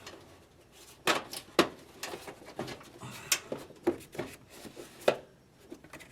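Hard plastic car trim being handled and pushed against its mounting holes, a string of sharp clicks and knocks for a few seconds.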